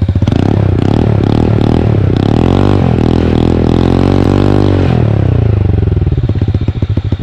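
TVS Ntorq 125 scooter's single-cylinder engine revving through an aftermarket Akrapovic exhaust. A few quick throttle blips lead into a long rev that holds high for about two seconds, then drops back to a lumpy idle near the end.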